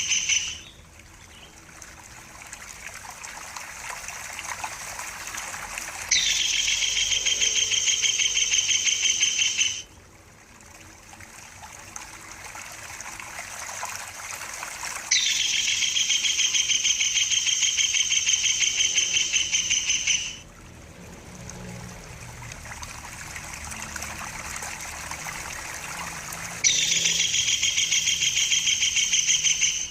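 Tengkek buto kingfisher calling: long, loud runs of rapid, evenly repeated high notes, each lasting several seconds. One run is ending at the start, and three more follow. A steady trickling-water sound fills the gaps between them.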